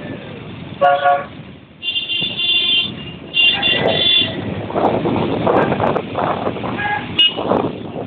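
Vehicle horns in a motorbike cavalcade honking several times in short blasts of a second or so, some high-pitched, over the noise of motorbike engines and the road.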